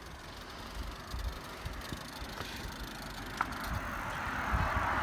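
Wind buffeting the microphone throughout, with the tyre noise of an approaching car growing steadily louder over the second half.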